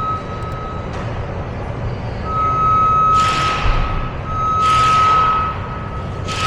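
Steady electronic beep sounding in long spells: once at the start, then again about two seconds in, four seconds in and near the end, each lasting a second or more. Three short bursts of hiss come in between.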